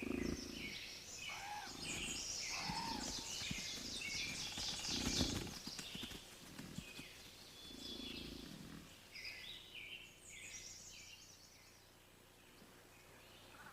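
Birds chirping and calling over and over, with a few low rumbles underneath, fading away near the end.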